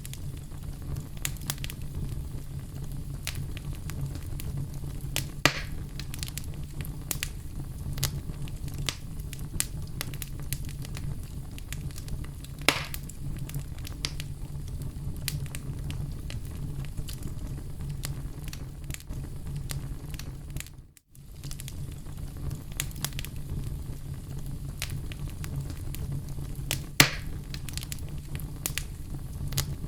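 Oak logs burning in a fireplace: a steady low rumble of flame under frequent small crackles, with a few sharper pops. The sound dips out for a moment about two-thirds of the way through.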